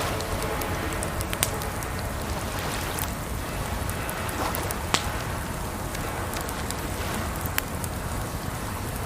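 Wood fire crackling with scattered sharp pops, the loudest about five seconds in, over a steady rush of water.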